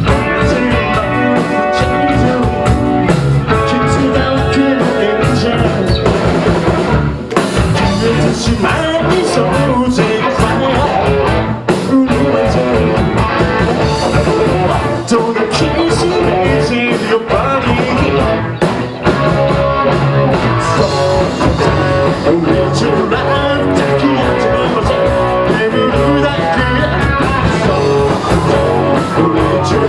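Live rock band playing a song: electric guitar and drum kit driving a steady beat, loud throughout.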